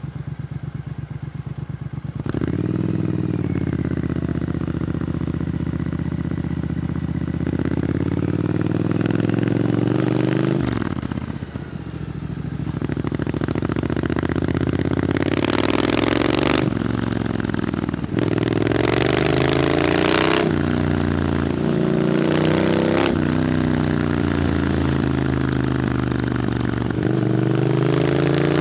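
Triumph Scrambler 900's parallel-twin engine through an Arrow exhaust, idling with a slow pulse for about two seconds, then pulling up through the revs. The pitch climbs and drops back again and again, as the bike accelerates through the gears.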